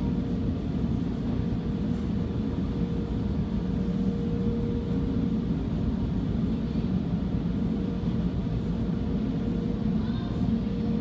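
Steady low rumble of an automatic car wash heard from inside the car's cabin, with a thin steady hum running through it.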